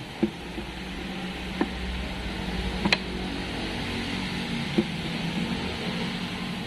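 Sharp, separate knocks of tools on transmission parts during a teardown, four of them a second or two apart, over a steady background hum.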